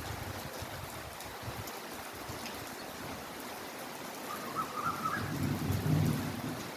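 Heavy rain falling steadily. About five seconds in a low rumble swells up and becomes the loudest sound.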